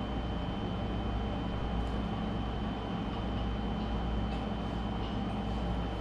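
Steady low rumble and hum with a faint constant high-pitched tone, unchanging throughout.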